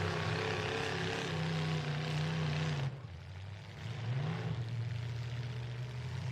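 Demolition derby trucks' engines running with a steady drone. The sound drops off abruptly about three seconds in, then an engine revs up with a rising pitch and settles back to a steady run.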